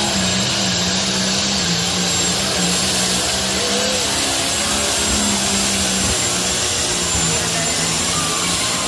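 Competition pulling tractor's engine running loud and steady, with no big rise or fall in pitch.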